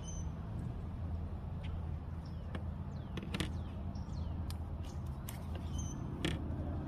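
Scattered sharp clicks and taps of hand tools working on the Sprinter's oil filter housing as the old filter is taken out, over a steady low hum.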